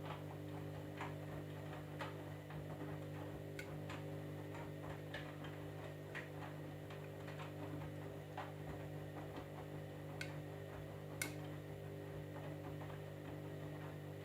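Candy EcoMix washing machine running: a steady low hum with scattered light clicks and ticks at irregular intervals, the sharpest about eleven seconds in.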